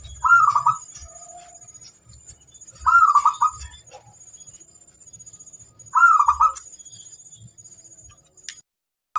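Zebra dove (perkutut) cooing: three short phrases of quick pulsed notes, about three seconds apart.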